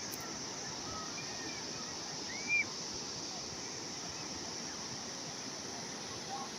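Calm sea waves heard as a steady rushing wash, with a few faint short high chirps over it, the loudest about two and a half seconds in.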